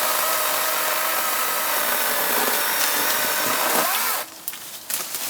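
Kobalt 24-volt electric chainsaw running under load, cutting through a dead tree with a steady motor whine and chain rasp. It cuts off suddenly about four seconds in, followed by a few sharp cracks and knocks.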